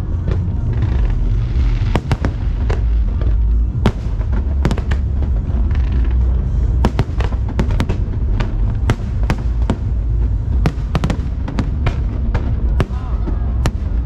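Fireworks going off in quick succession: many sharp bangs and crackles over a continuous low rumble, with music playing underneath.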